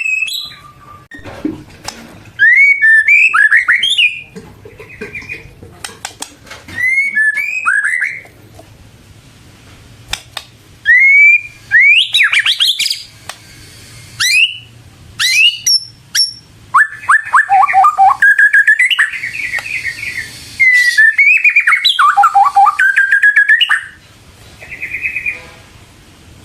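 White-rumped shama singing loudly in repeated phrases of quick, sweeping whistled notes mixed with harsher rasping notes, with short pauses between phrases.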